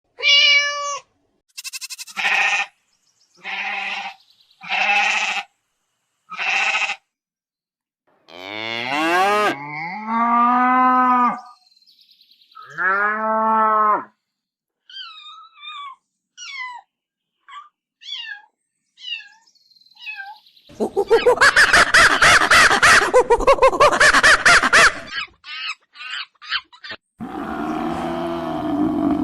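A run of different animal calls one after another. First come short repeated calls, then drawn-out, arching livestock calls of the lowing and bleating kind, then a string of small bird chirps, a loud rapid pulsing call, and low calls near the end.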